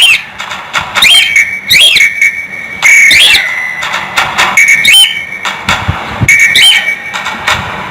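Cockatiel whistling: several held notes, each ending in a quick rising flick, repeated every second or two, with a few sharp clicks between them.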